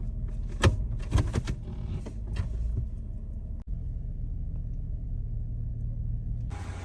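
Jeep Wrangler's engine running at a slow, steady pace as a low drone, with a few sharp knocks in the first couple of seconds. A steady hiss sets in near the end.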